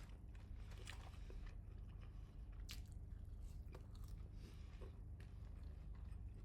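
Close-up chewing of crispy McDonald's French fries, with scattered faint crunches every second or so.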